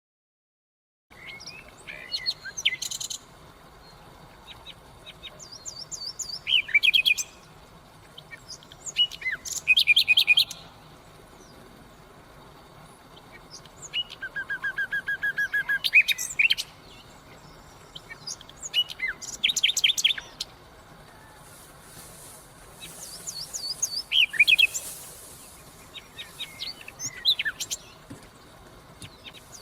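Nightingale singing, beginning about a second in: separate phrases of rapid repeated notes, trills and whistles with short pauses between, and about halfway a slow series of low piping notes that swells in loudness.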